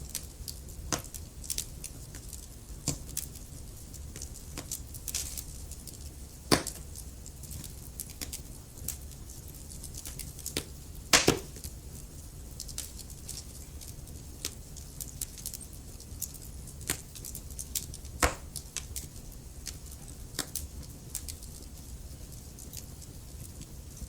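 Wood fire crackling: irregular sharp pops and snaps from the burning logs over a low, steady rumble. Two louder pops stand out, about six and eleven seconds in.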